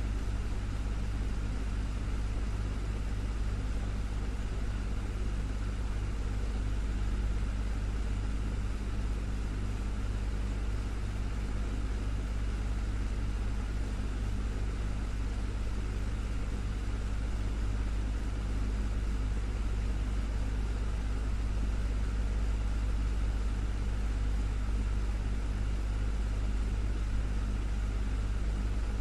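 Desktop fan running steadily: an even whir of air with a low motor hum.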